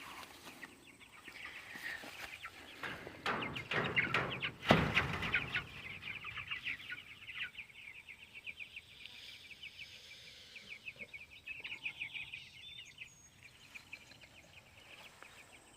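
A crowd of young chicks peeping continuously in rapid, high chirps. Rustling and a loud knock come about five seconds in.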